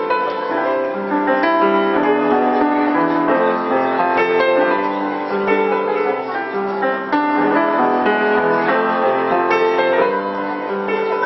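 Piano playing a continuous melody with chords.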